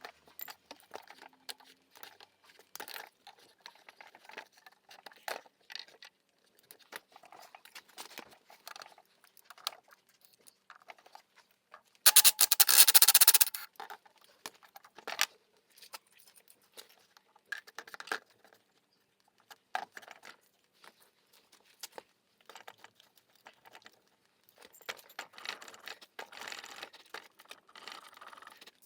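Scattered small clicks and light metal taps of tools and rear brake caliper parts being handled, with one loud hiss lasting about a second and a half partway through.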